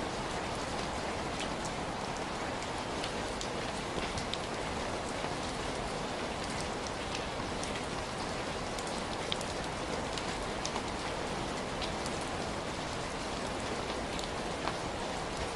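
Heavy rain falling steadily, a dense even hiss with many sharp individual drop ticks spattering on a surface.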